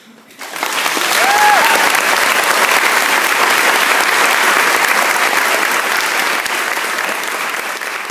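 Audience applauding as the song ends, rising quickly about half a second in and staying steady, with a short call from the crowd about a second in.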